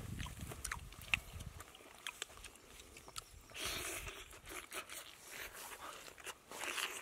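Close-up eating of roasted meat: biting and chewing with many short wet mouth clicks and crunches, and a louder stretch of noise around the middle.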